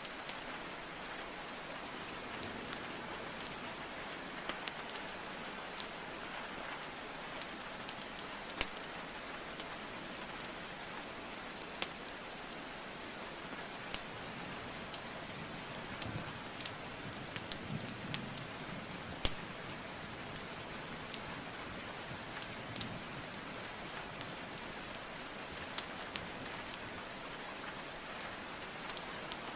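Steady rainfall mixed with a wood fire crackling, with sharp pops of burning logs about every second or two and a quicker run of them near the middle.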